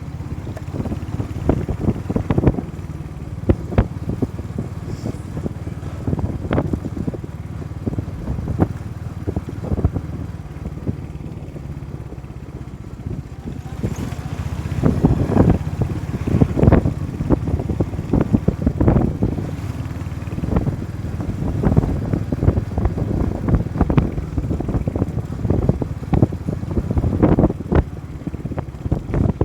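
Motorcycle engine running steadily while riding, with irregular gusts of wind buffeting the microphone.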